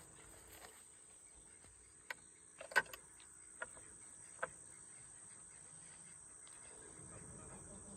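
Quiet outdoor ambience: a steady high-pitched insect drone, with a few short, sharp sounds between about two and four and a half seconds in.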